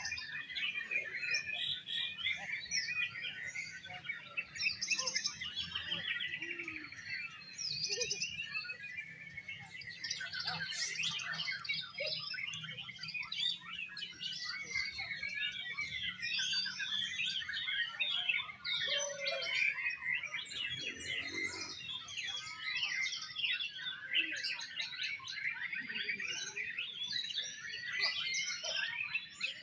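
Oriental magpie-robins (kacer) singing at once, a dense, unbroken stream of fast, varied whistles and chirps.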